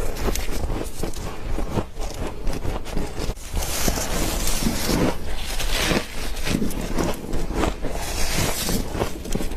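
Close-up crunching and chewing of frozen frost: continuous crackly crunches as it is bitten and ground between the teeth, with louder spells about four seconds in and again near the end.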